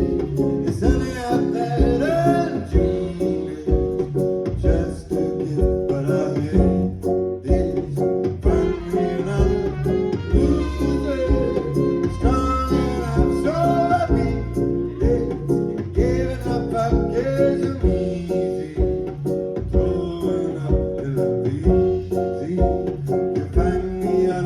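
Live band playing an instrumental passage of a song: electric guitar and bass over a steady drum beat, with a melodic lead line gliding above.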